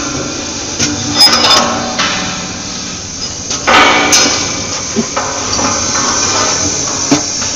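Gas-shielded flux-cored arc welding: the arc crackles and sizzles steadily, with louder surges about a second in and again about four seconds in, and a few sharp pops.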